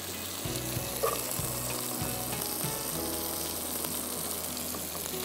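Crushed garlic and chopped onion frying in hot oil in a saucepan: a steady sizzle, with a few faint clicks of a utensil or bowl against the pan.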